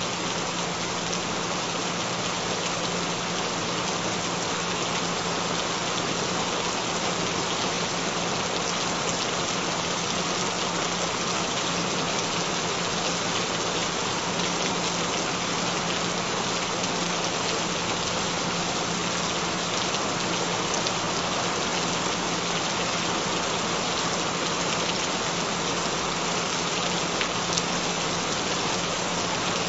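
Steady rain falling, an even unbroken hiss, with a low steady tone underneath.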